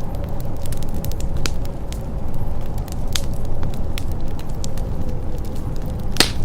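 Fireplace crackling: a steady low rumble of burning with scattered sharp pops, the loudest one just before the end.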